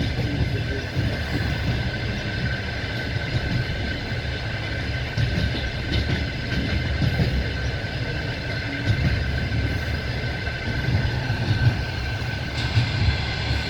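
Passenger train running along the line: a steady rumble of carriage wheels on the rails, heard from a carriage window, with a thin steady high tone over it.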